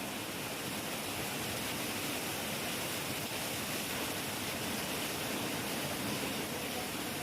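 Heavy rain falling steadily, an even hiss with no thunder and no change in level.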